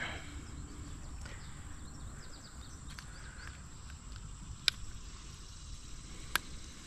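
Outdoor ambience at a creek: a steady low rumble with faint chirping, broken by three sharp clicks, the loudest a little past the middle.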